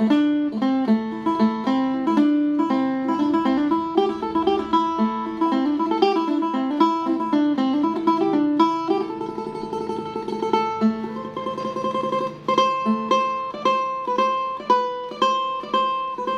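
Phin, the Isan plucked lute, playing a lam phloen melody in quick plucked notes over steady held tones, with a stretch of rapid tremolo picking about nine seconds in.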